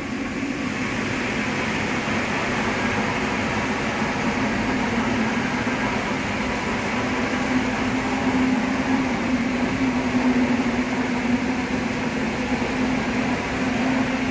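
C510B industrial wet floor scrubber running steadily: an even machine hum with a steady droning tone beneath it.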